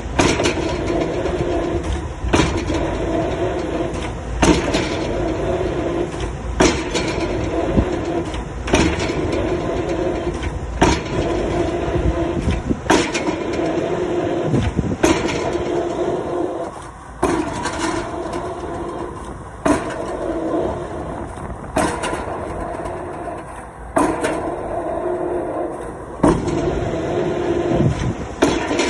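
Excavator-mounted drop hammer striking a square concrete pile about once every two seconds, each blow a sharp bang, over the steady running of the excavator's engine.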